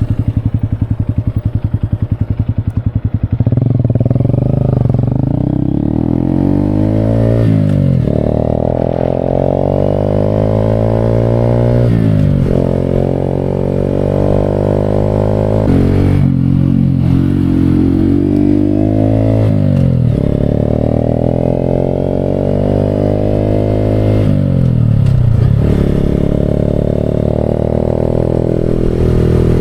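Honda Grom's small single-cylinder motorcycle engine under way, chugging at low revs for the first few seconds. Its pitch then rises and falls again and again, breaking off about five times as the rider changes gear.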